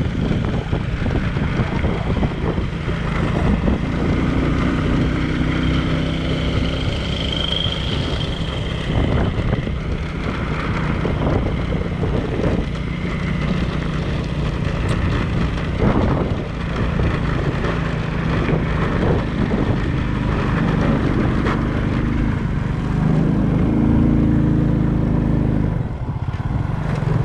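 Vehicle engine running steadily on the move, with wind noise on the microphone.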